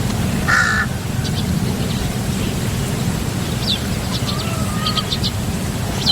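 Wild birds calling: one loud harsh call about half a second in, then short high chirps in quick runs and a brief thin whistle, over a steady low rumble of outdoor background noise.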